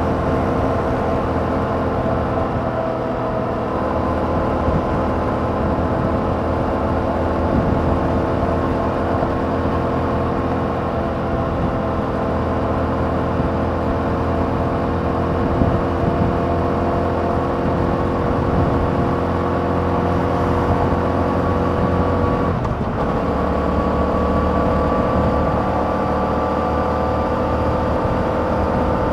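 2021 Yamaha MT-07's 689 cc parallel-twin engine running through its stock exhaust while riding at fairly steady revs, with one brief dip in the engine note about three quarters of the way through.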